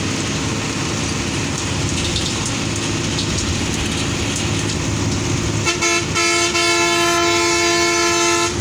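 Steady road and engine rumble of a coach at speed. Past the middle, a horn gives a couple of short toots, then one long blast that stops just before the end.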